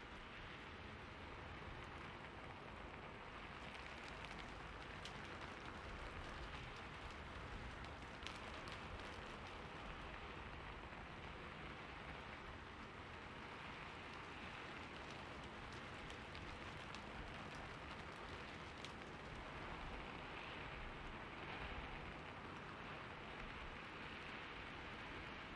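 Steady rainfall: a continuous even hiss of rain with a few sharper drop taps here and there.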